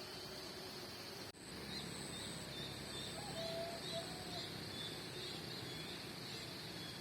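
Quiet outdoor ambience: a steady high insect-like hiss with short, repeated high bird chirps and a brief lower call about three seconds in. The sound drops out for an instant about a second in.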